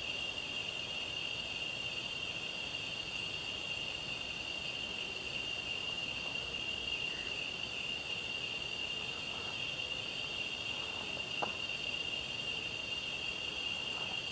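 Night insect chorus, crickets chirring steadily in several high-pitched tones.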